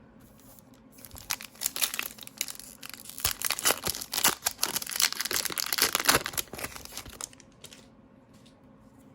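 A trading card pack's wrapper being torn open and crinkled: dense crackling that starts about a second in and stops about seven seconds in.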